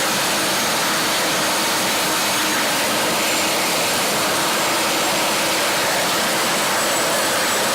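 Helicopter turbine engines running: a loud, steady rushing noise with a faint high whine and no breaks.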